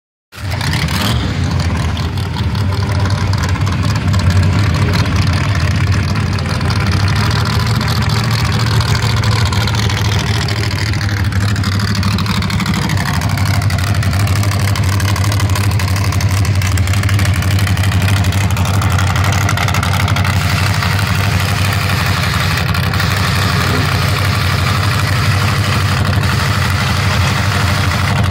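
Nitrous-fed El Camino drag car's engine running loudly and steadily, mostly at idle, with slow rises and falls in pitch around the middle.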